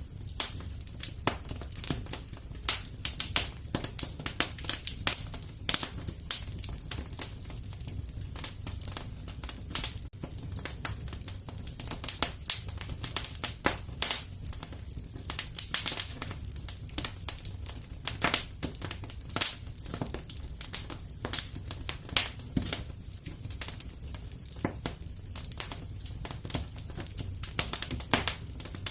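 Wood fire crackling in a fireplace: irregular sharp pops and snaps, some loud, over a steady low rumble.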